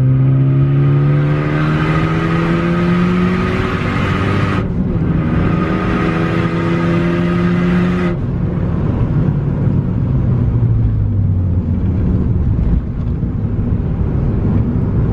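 Big-turbo Ford Focus ST's 2.0-litre turbocharged four-cylinder under full throttle, heard from inside the cabin. The revs climb, break off briefly for an upshift about four and a half seconds in, and climb again. The throttle closes at about eight seconds, and the revs then fall away as the car coasts.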